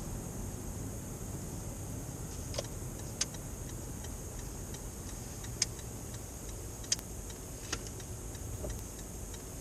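Road noise inside a moving car: a steady low rumble, with a few sharp clicks or small rattles at irregular moments.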